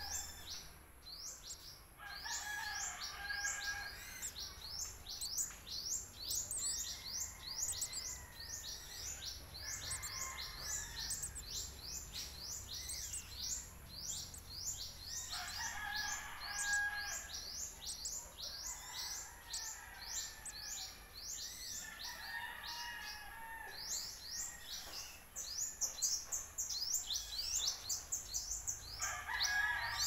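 Forest birds chirping continuously: a fast, steady run of short, high-pitched chirps, with a lower call of about two seconds coming back every several seconds.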